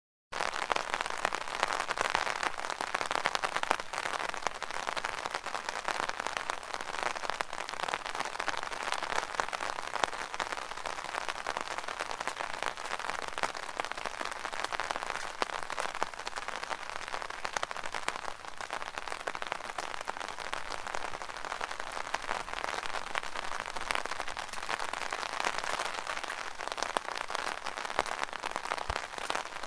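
Rain pattering steadily on an umbrella canopy, a dense mass of fine drop ticks. It starts abruptly out of silence about a third of a second in.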